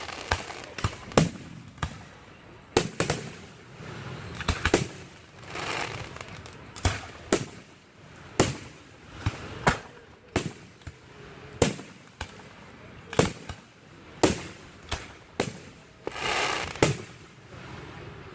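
Fireworks show: aerial shells bursting in a quick, uneven series of sharp bangs, about one or two a second, with a longer hissing burst near the end.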